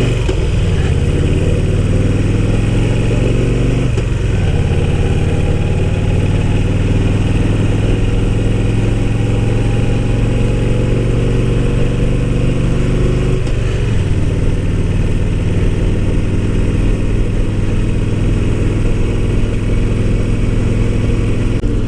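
Harley-Davidson Fat Boy's V-twin engine running steadily on the move. Its pitch drops briefly and picks up again about four seconds in and again about fourteen seconds in, as with gear changes.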